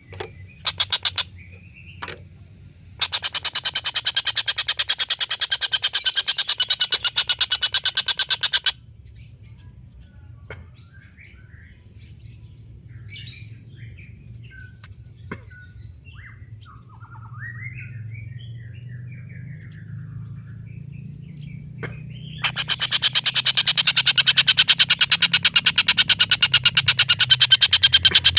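Collared kingfisher (tengkek buto) giving its long rattling 'ngekek' call. It is a fast run of loud, sharp, repeated notes lasting several seconds, heard once about three seconds in and again from about two-thirds of the way through, with softer scattered chirps in between.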